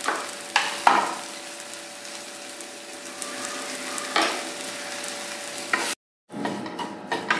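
Onion-tomato masala frying in oil in a kadai, a steady sizzle with a few sharp clicks and knocks, likely from the wooden spatula against the pan. The sound drops out for a moment about six seconds in, then the sizzle resumes.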